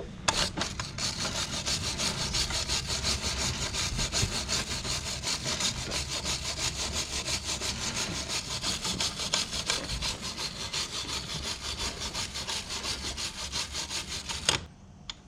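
Wire brush scrubbed rapidly back and forth over the ATV's greasy drive chain, a steady run of quick scraping strokes that stops suddenly near the end, cleaning off grime to expose the master link.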